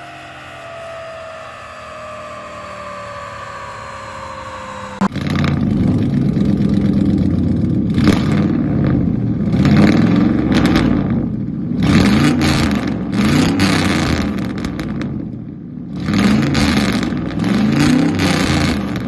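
A pickup truck's engine revving through a loud exhaust: about six quick rev-ups and drops, coming in suddenly about five seconds in. Before that, a fainter sound of several tones slowly falling in pitch.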